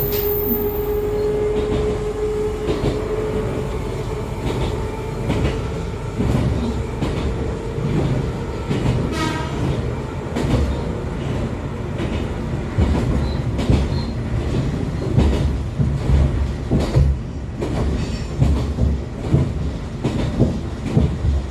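Running sound of an Echizen Railway MC6101-series electric railcar with MT54 DC series-wound traction motors, heard on board: rumble with irregular knocks and clatter over the rail joints, growing louder and thumpier in the second half. A steady motor tone at the start dies away within the first few seconds.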